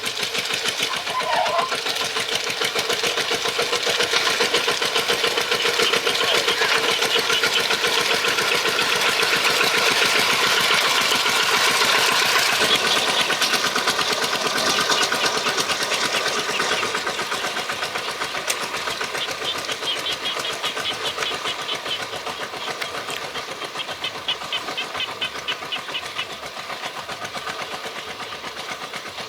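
Tractor engine running with a fast, even knocking beat, growing louder toward the middle and then easing off.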